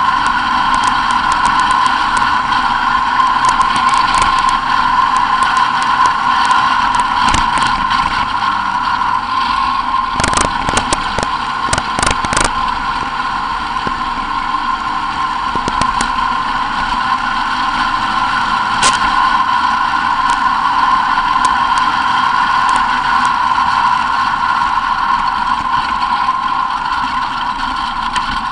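Race car's engine running steadily as the car drives a rough dirt track, heard through an onboard camera, with a cluster of knocks and rattles about ten to twelve seconds in.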